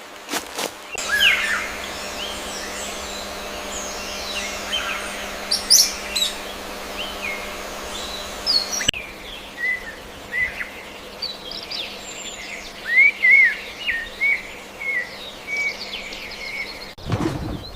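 Small birds chirping and calling, in two separate recordings joined by a cut about nine seconds in; the second is made of short upswept chirps. Near the end a louder, deeper sound begins.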